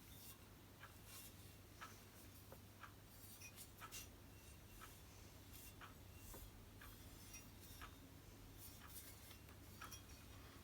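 Near silence with a low steady hum, broken by faint, irregular light clicks and taps, about one or two a second.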